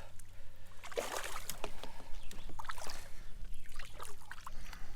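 Water splashing and dripping around a kayak, with scattered short clicks and knocks, as a hooked smallmouth bass is brought in alongside.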